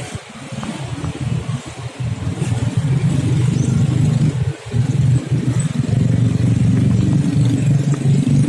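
Motor traffic passing close by on the road: engines running as a steady low rumble that grows louder about three seconds in.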